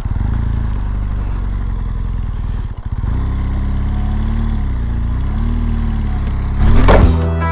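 BMW R1200GS boxer-twin engine running at low speed on a gravel road, its note dipping and rising a few times. Near the end a loud rising swoosh cuts in as music begins.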